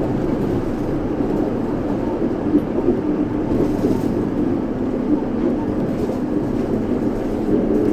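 Yurikamome 7300-series rubber-tyred automated train running between stations: a steady running noise with a constant low motor hum.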